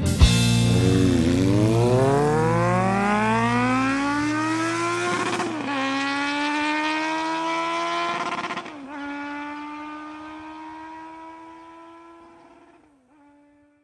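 A motorcycle engine accelerating hard, its pitch climbing, falling at two upshifts and climbing again, then fading away into the distance.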